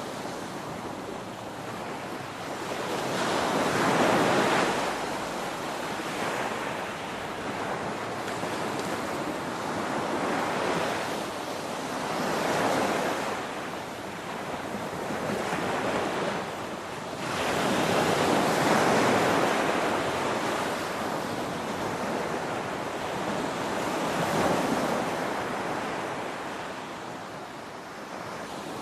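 Ocean waves crashing in a continuous wash of surf that swells and fades, with a louder break every several seconds.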